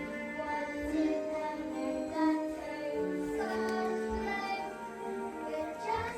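A song with children's voices singing over a backing track.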